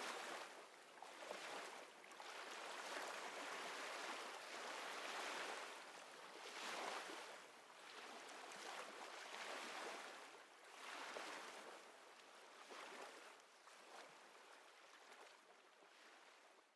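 Gentle waves lapping, the water noise swelling and easing every couple of seconds and growing fainter toward the end.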